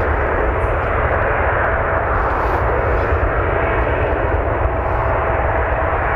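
Boeing 787-8's Rolls-Royce Trent 1000 turbofans at takeoff thrust: a steady, loud rush of jet noise with a faint steady whine, as the airliner makes its takeoff run.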